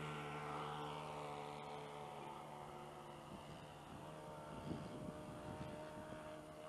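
Engine of an RC model Skyraider droning steadily in flight, its tone fading as the plane flies away. Wind buffets the microphone in the second half.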